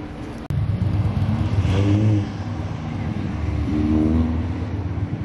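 Ferrari Roma's twin-turbo V8 accelerating past, the engine note rising for about a second, falling back at a gearshift around two seconds in, then climbing again. It opens with a quieter engine sound that cuts off abruptly about half a second in.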